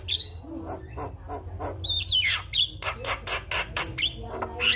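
Javan myna (jalak kebo) singing: harsh chattering notes mixed with clear whistles, with a long downward-sweeping whistle about two seconds in.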